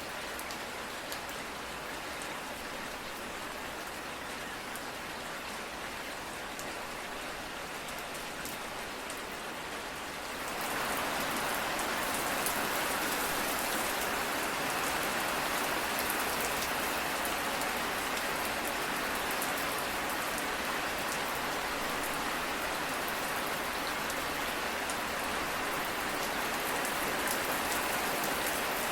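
Steady rain falling on a surface, with scattered drop ticks. About a third of the way through it grows heavier and louder, and stays so.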